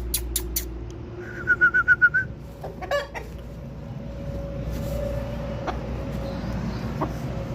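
Aseel chickens clucking: a quick run of about seven short, evenly spaced clucks about a second in, then a harsher single call near three seconds.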